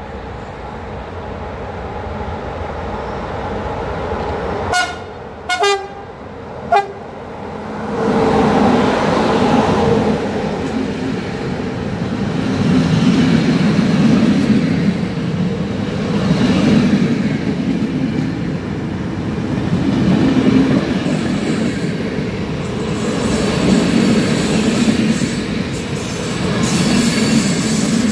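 Approaching locomotive gives several short horn blasts about five to seven seconds in. The passenger train then runs close by, its wheels loud on the rails, the noise swelling and easing as each coach passes.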